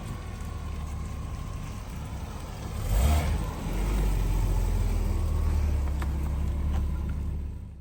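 Low, steady rumble of a vehicle on the move. About three seconds in there is a brief louder surge, and after it the rumble is louder and steady.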